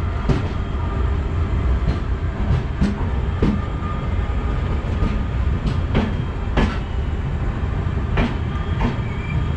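Express train with LHB coaches running, heard from aboard: a steady low rumble with sharp clacks of the wheels over rail joints, several coming in pairs about half a second apart.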